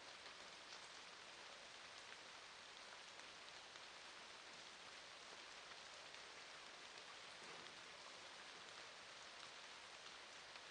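Faint, steady rain falling: an even patter of many small drops with no change in intensity.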